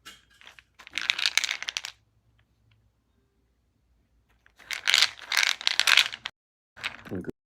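Small zinc caplets rattling inside a plastic supplement bottle, in three bursts of dense clicking: two lasting about a second or more, and a short one near the end.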